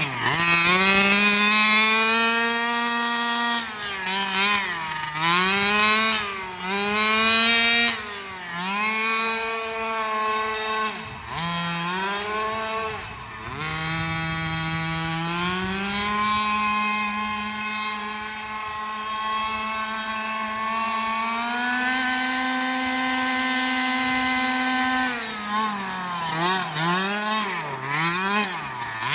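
Redcat Rampage XR Rally's 30cc two-stroke gas engine with a JetPro tuned pipe, revving up and down again and again as the 1/5-scale RC car is driven. It holds a steady high pitch for several seconds in the later part, then blips quickly near the end.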